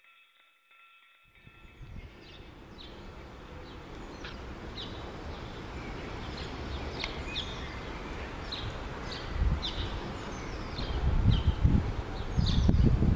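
Outdoor ambience: a songbird gives short, repeated, downward-sliding chirps. Beneath it, low gusts of wind buffet the microphone, growing louder and becoming the loudest sound over the last few seconds.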